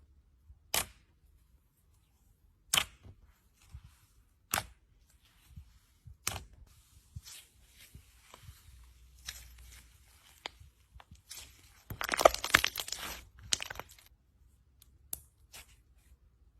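Slime being handled, making sharp separate pops about every two seconds at first, then scattered small clicks, with a dense burst of crackling about twelve seconds in.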